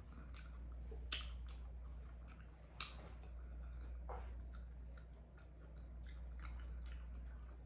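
Close-up eating sounds: a person chewing with scattered wet mouth clicks, two sharper clicks a little after one second and near three seconds. A steady low hum runs underneath.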